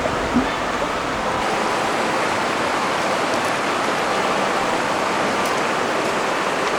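River water rushing steadily over a stream bed, an even flowing hiss, with a low rumble for the first second and a half.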